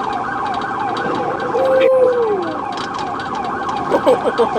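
Police car siren in a fast yelp, rising and falling about two to three times a second over a steady tone, with a brief falling tone about two seconds in.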